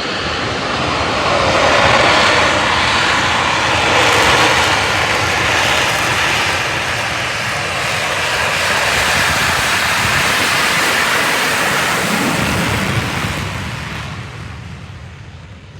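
Blue Angels F/A-18 Hornet jets taking off, a loud jet roar that fades away over the last few seconds.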